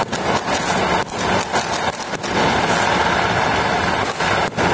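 Many fireworks and firecrackers going off at once across a city, merging into a steady crackling wash of noise, with a few brief dips in level.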